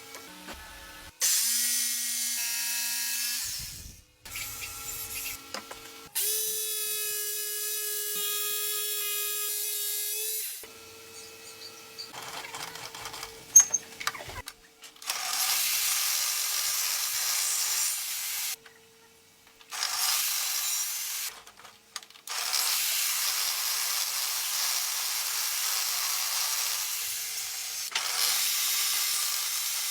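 Electric jigsaw running in several bursts with short pauses between them. At first it runs with a steady pitched whine. Later stretches are rougher and hissier, with the blade sawing through wood.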